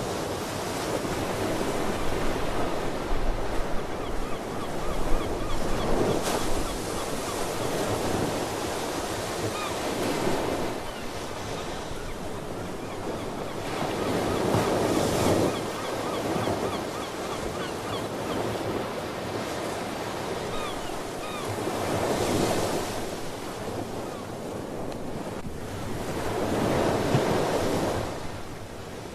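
Ocean waves breaking and washing ashore, swelling in surges every few seconds, with sea birds calling faintly now and then.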